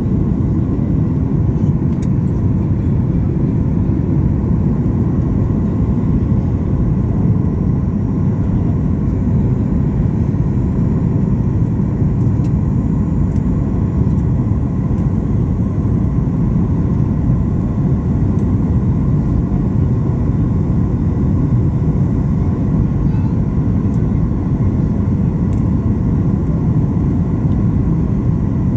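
Steady low rumble of an airliner's engines, with faint high whining tones running through it.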